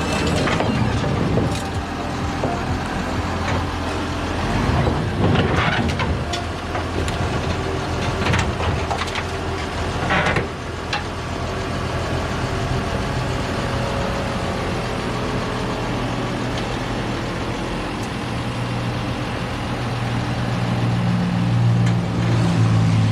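A vehicle engine running with a steady low hum, growing louder over the last few seconds, with a few brief knocks partway through.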